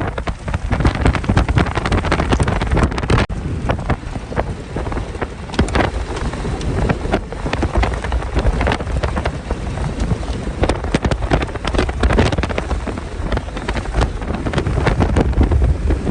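Strong storm wind buffeting the microphone in irregular gusts, with a heavy low rumble and sharp crackling hits.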